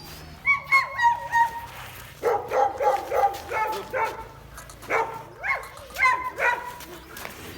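A dog barking and yipping in quick runs of short, high-pitched calls, with a few brief pauses between the runs.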